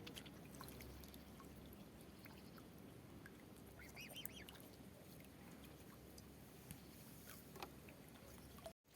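Faint outdoor background with a short waterfowl call about four seconds in, and a few small clicks.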